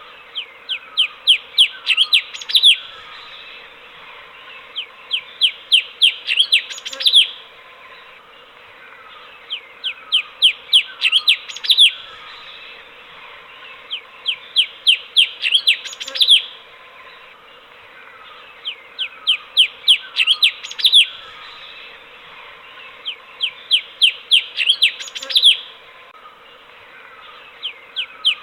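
Cucak cungkok (streak-eared bulbul) singing: a phrase of about ten quick, downward-sweeping chirps that grows louder toward its end, repeated about every four and a half seconds over a steady background hiss.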